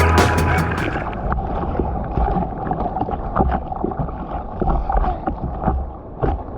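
Seawater sloshing and splashing around a GoPro in the surf, with a low wind rumble on the microphone and scattered small splashes. A fast run of sharp ticks cuts off about a second in.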